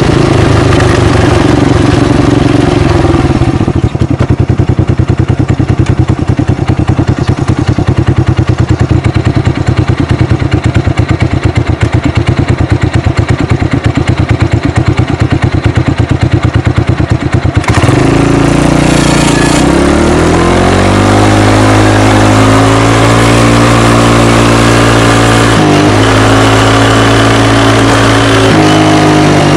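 ATV engine with its end silencer removed, heard close at the open exhaust: a loud, rapid pulsing at low revs, then a little over halfway through the note changes abruptly and climbs as the engine accelerates, with a brief break near the end.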